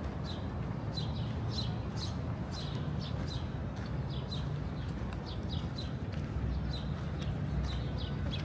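Small birds chirping in short, high notes, roughly twice a second at uneven intervals, over a steady low rumble of city background.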